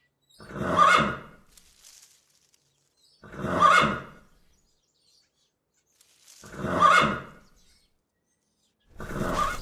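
A horse neighing three times, each whinny about a second long and about three seconds apart, with near-identical calls each time. A noisier, scraping sound begins just before the end.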